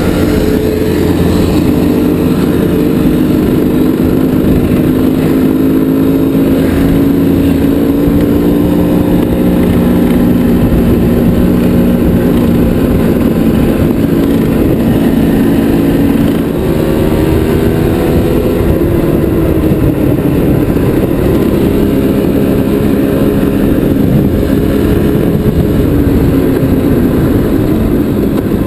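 Off-road vehicle engine running on a trail ride, its pitch rising and falling with the throttle, with a brief easing off about halfway through.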